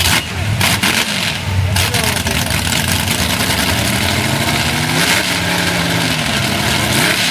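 Mud truck engine revving under a loud, noisy roar, its pitch climbing twice.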